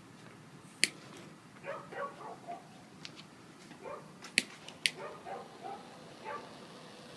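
A dog whimpering and yipping in short, high calls throughout, with three sharp clicks: one near the start and two close together a little past the middle.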